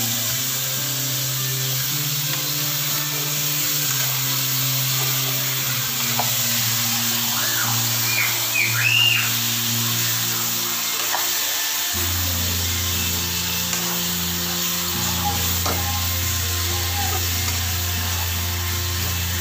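Chicken pieces sizzling in oil in a steel kadai while being stirred with a steel spoon, over low, sustained background music notes that shift pitch about twelve seconds in. A few short high chirps come around eight to nine seconds in.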